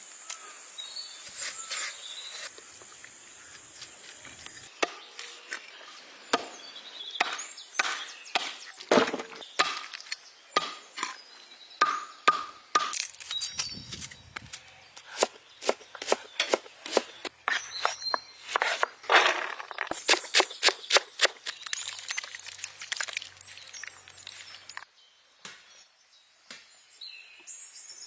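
A knife chopping on a cutting board: many quick, sharp strokes in irregular runs, thickest about two-thirds of the way through, stopping shortly before the end.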